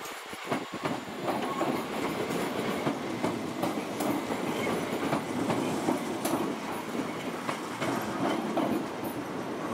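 A train rolling past on the tracks: a steady rumble of wheels on rail, with irregular clicks from the wheels running over rail joints and points.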